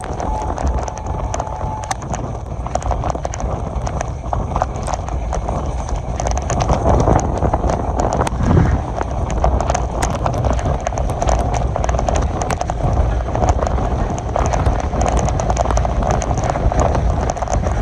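Moving passenger train: the wheels rumble steadily and clatter on the rails, with many sharp clicks, while heavy rain falls.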